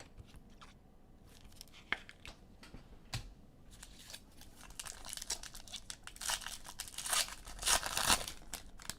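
Foil trading-card pack wrapper crinkling and being torn open, after a few light clicks; the crinkling grows denser from about four seconds in and is loudest near the end.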